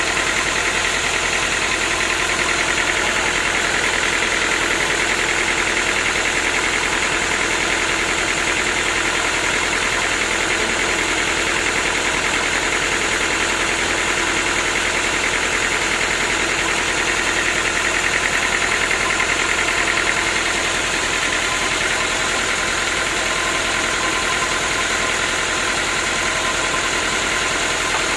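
Sawmill machinery running steadily, a continuous loud mechanical drone with no breaks.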